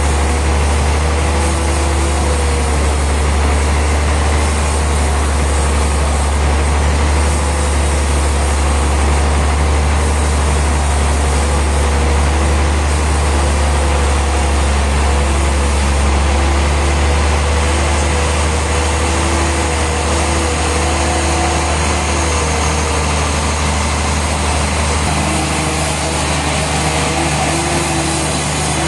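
Heavy engine of sawmill machinery running steadily: a deep drone with wavering higher tones above it, its note shifting about 25 seconds in.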